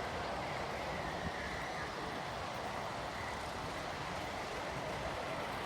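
A train running by with a steady, even noise, and a faint high tone about half a second to two seconds in.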